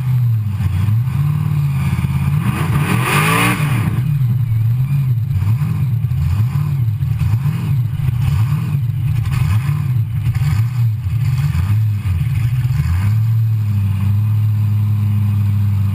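Big carburetted V8 of a burnout car, heard close up from the car's hood, idling roughly with revs rising and falling as the car rolls slowly. A brief louder, higher burst about three seconds in, and the engine settles into a steadier idle near the end.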